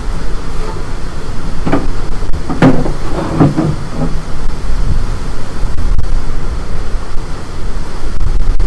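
Strong storm wind buffeting the microphone: a loud, steady low rumble. A few short higher-pitched sounds rise over it between about two and four seconds in.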